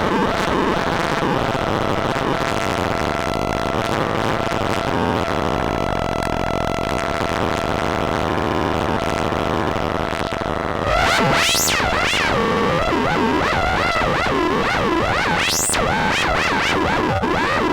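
Harsh, noisy synthesizer sound: a dense distorted wash with a couple of steady held tones, then, about eleven seconds in, it turns louder into wobbling pitch sweeps that twice shoot up very high.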